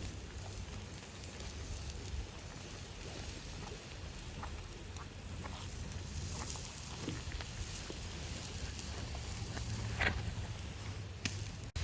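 Riverside outdoor ambience: a steady rushing of the flowing stream, with wind buffeting the microphone as a low rumble. Scattered light clicks and taps come through it, a sharper one about ten seconds in.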